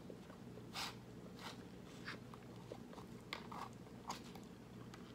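Close-miked eating of a KFC Famous Bowl: chewing, with about half a dozen short crisp crunches and clicks from the food and the plastic fork in the plastic bowl. A faint steady low hum runs underneath.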